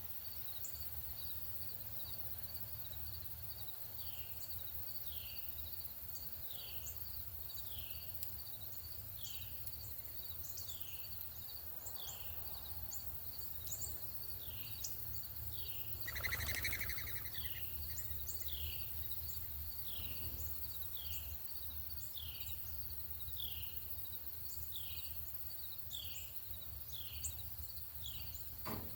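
Northern cardinal singing a long series of down-slurred whistled notes, about one and a half a second, over a steady high insect chirping. A brief louder rough sound breaks in about halfway through.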